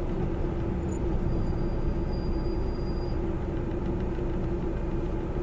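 Steady drone inside a truck's cab: the diesel engine running, with a constant low hum and rumble.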